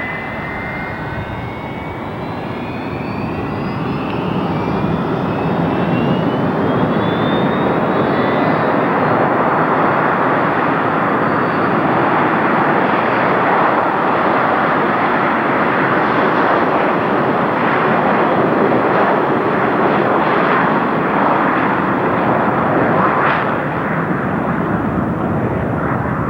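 Airliner's turbine engines spooling up with a rising whine for takeoff, then loud engine noise building as it rolls down the runway, holding steady and easing slightly near the end.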